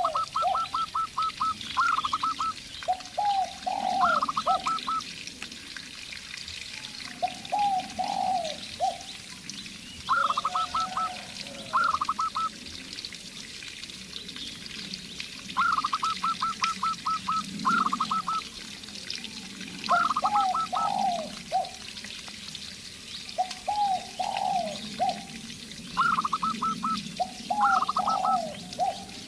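A zebra dove and a spotted dove cooing back and forth: quick runs of short, evenly spaced higher notes alternate with groups of lower, falling coos, a new phrase every few seconds.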